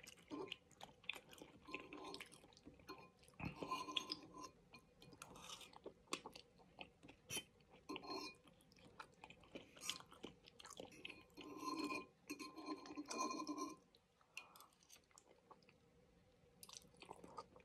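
Quiet chewing of udon noodles, with many short wet mouth clicks.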